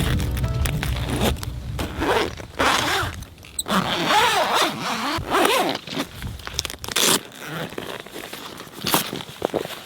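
A run of short rasping strokes and clicks, like a zipper being worked and gear being handled, with a few squeaky sliding sounds about halfway through.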